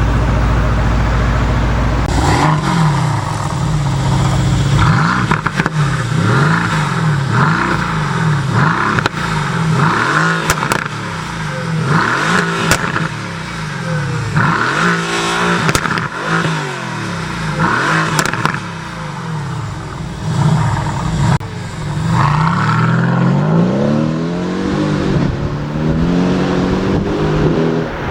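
Twin-turbo V8 of a 2017 Mercedes-AMG GT S with an Akrapovic titanium Evolution exhaust, running steadily at first, then revved again and again from about two seconds in, the note rising and falling with each rev. A few sharp pops from the exhaust come between revs.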